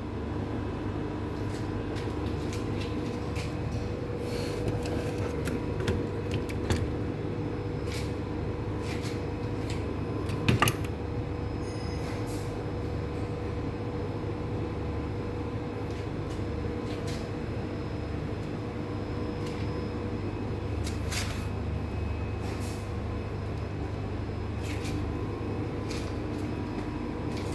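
A steady mechanical hum, with scattered short clicks and knocks over it and one louder knock about ten seconds in.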